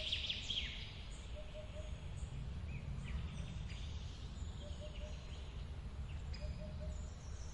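Forest waterfall ambience: a steady low rush of falling water, with birds chirping and trilling over it. A low call of a few quick notes repeats every couple of seconds.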